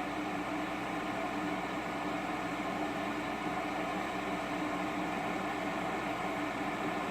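Electric kettle boiling steadily, a constant rushing hiss and rumble of water at a full boil.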